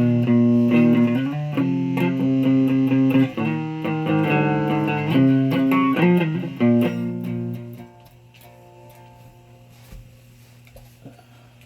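Electric guitar played through an amplifier: a run of picked notes and chords. The playing stops about eight seconds in, leaving only a faint steady amp hum.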